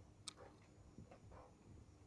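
Near silence, with one faint sharp click about a quarter second in and a softer tick about a second in.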